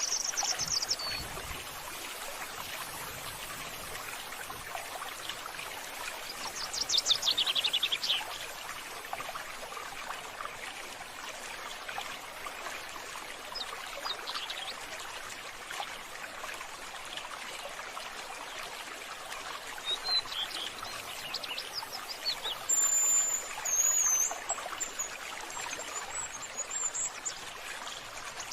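Birds chirping and calling over a steady hiss of running water. A loud falling trill comes about seven seconds in, and high whistled notes come near the end.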